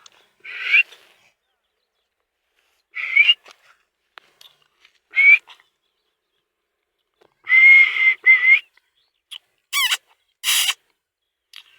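Pet parrot giving a series of short whistled calls, one to two seconds apart. About ten seconds in comes a quick falling whistle, followed at once by a harsh noisy screech.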